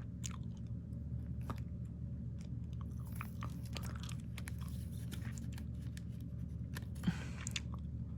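Trading cards being handled and flipped through by hand: scattered soft clicks and light rustling, over a steady low hum.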